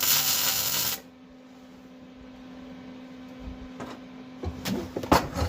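Short burst of welding-arc crackle lasting about a second, a tack weld on a thin sheet-metal floor patch. A steady low hum follows, with a few sharp knocks near the end.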